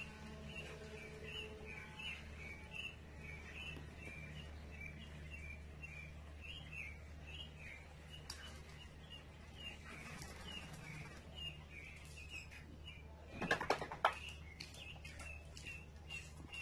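Small birds chirping, a few short high chirps a second, over a steady low hum; a brief clatter near the end.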